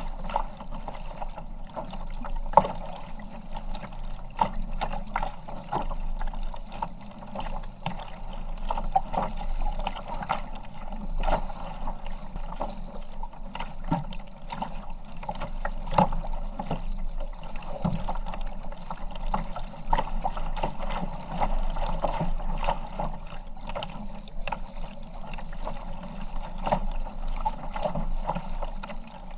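Kayak on the move: water sloshing and splashing against the paddle and hull, with frequent short knocks.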